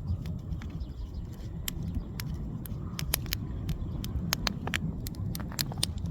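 Newly lit bonfire crackling with sharp, irregular pops, over a low rumble of wind on the microphone.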